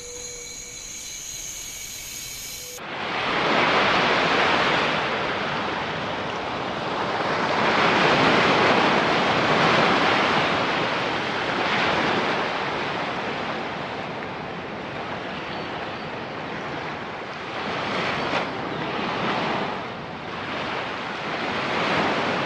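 High, steady insect chirring; about three seconds in it cuts to a loud rushing noise that swells and fades every few seconds.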